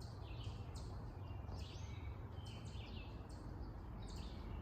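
Birds chirping and singing in quick short phrases, several a second, over a steady low rumble.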